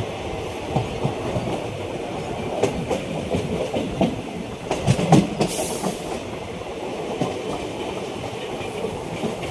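Passenger train running, heard from on board: a steady rumble with irregular clacks of the wheels over rail joints, and a brief high hiss about five and a half seconds in.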